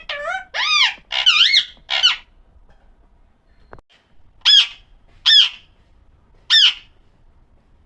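Parrot calling: a quick run of four wavering, warbling squawks in the first two seconds, then after a pause three short sharp calls about a second apart.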